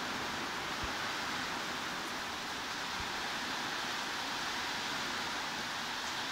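Steady heavy rain, a continuous even hiss with no changes.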